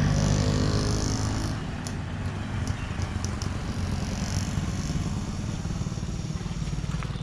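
Motorcycle engine running steadily, a little quieter from about two seconds in, with a few faint ticks over it.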